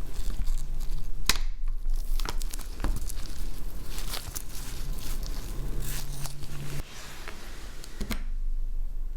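Handling noise from taking apart a Samsung Galaxy S10e: scattered sharp clicks with tearing and crinkling sounds, over a steady low hum.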